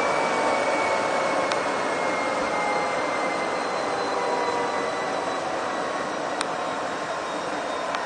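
Diesel engine of SNCF locomotive BB 68540 running hard, a loud dense roar with a high whine that slowly sinks in pitch as the engine eases off. Two short clicks are heard, one early and one late.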